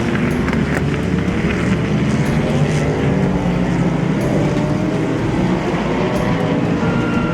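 Sports-prototype and GT race cars running on track, their engine notes rising steadily as they accelerate.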